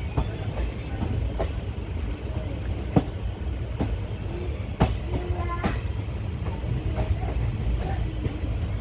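Moving passenger train coach: a steady low rumble of wheels on track, with irregular sharp clacks as the wheels cross rail joints and points, the loudest about three and five seconds in.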